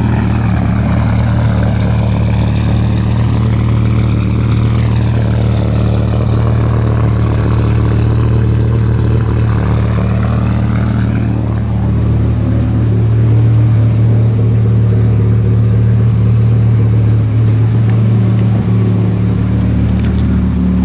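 Turbocharged Dodge Ram SRT-10's 8.3-litre V10 idling steadily through a fender-dump exhaust, a little louder from about halfway on.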